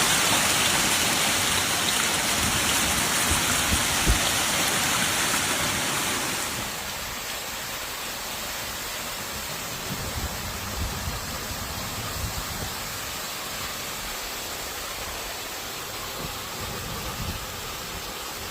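Heavy storm downpour hitting surfaces as a loud, even hiss. About six seconds in it switches abruptly to a quieter downpour with occasional low thumps.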